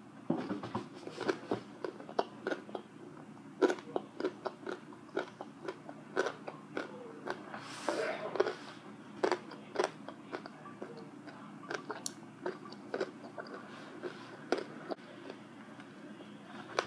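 A person chewing a hot pepper, with irregular wet clicks and crunches of the mouth. About eight seconds in, a short breath is blown out through pursed lips.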